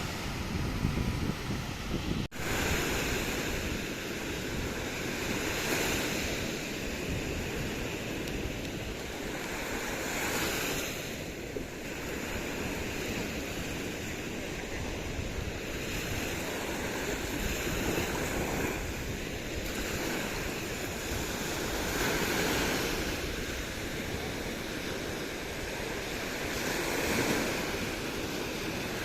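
Sea waves washing onto the shore, the surf swelling and easing every few seconds, with some wind on the microphone. A brief dropout about two seconds in.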